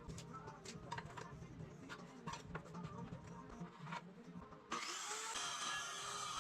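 Woodworking sounds: a string of sharp knocks and taps, then near the end a harsh, steady tool noise starts suddenly and keeps going.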